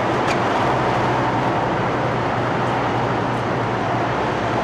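Steady low engine hum of idling diesel trucks, with a broad even rush of noise over it.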